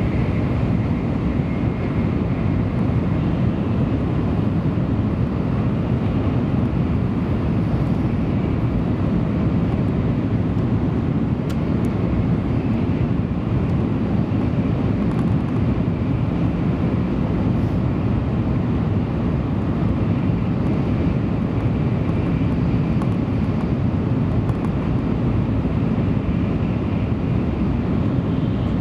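Steady low rumble of a Tokaido Shinkansen train running at speed, heard from inside the passenger car: wheels, track and body noise at an even level throughout.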